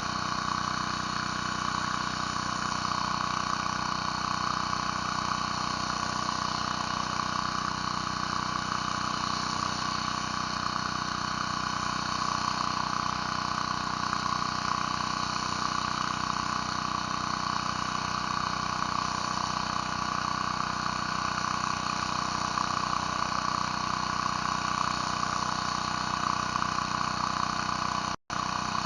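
Pressure washer's engine running steadily while a surface cleaner works the concrete. The sound cuts out for an instant near the end.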